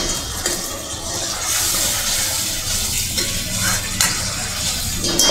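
Onion-tomato masala sizzling steadily in oil in a stainless steel kadai while a steel ladle stirs it, with a few clicks and scrapes of the ladle against the pan. The oil has separated and come up to the top, the sign that the masala is well sautéed.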